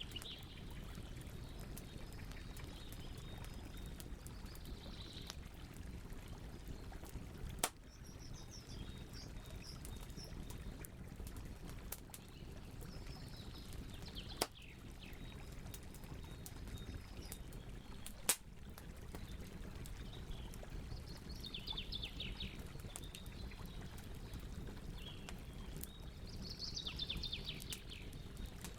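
Campfire burning with a steady low rush and three sharp pops from the wood. Birds chirp short high phrases over it every few seconds, the loudest near the end.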